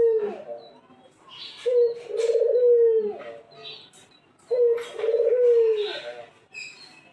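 Barbary dove (puter) cooing: long, low, rolling coos, each ending in a falling note. Two full coos come about three seconds apart, after the tail of one at the very start, with faint higher chirping between them.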